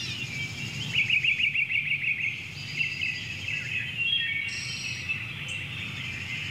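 Several birds singing together, a continuous mix of warbling song with a quick run of rapidly repeated notes about a second in, over a low background rumble.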